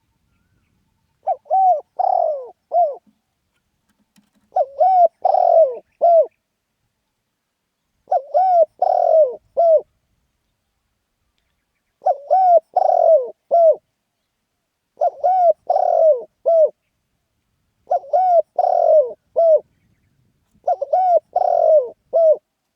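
Spotted dove cooing: seven phrases of three or four low coos each, repeating about every three and a half seconds, in the lively 'khan yon' style of call.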